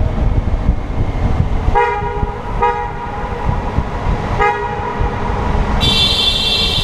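Honda Gold Wing motorcycle horn honked three times in short blasts, over the bike's running engine and wind noise. Near the end comes a longer, much higher-pitched tone.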